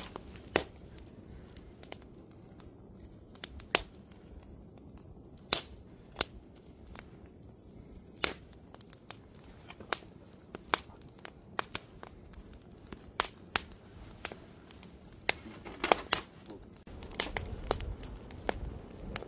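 Wood campfire crackling: irregular sharp pops of burning wood, one to several a second, over a low steady rumble.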